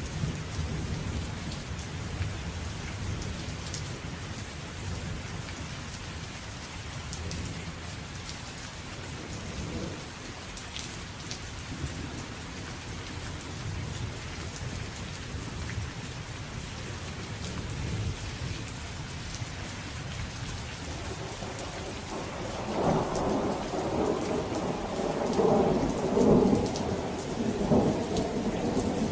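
Steady rain with low, rolling thunder. About three quarters of the way through, a louder peal of thunder swells for several seconds.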